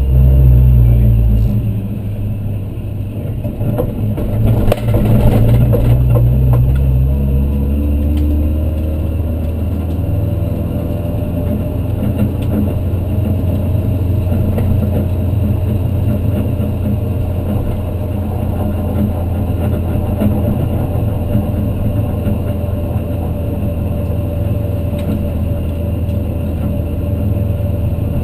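Supercharged 1.6-litre Toyota 4A-GZE four-cylinder in a stripped Corolla race car running at low revs, heard from inside the cabin. It swells louder for a couple of seconds about four seconds in, then settles into a steady low drone as the car rolls slowly.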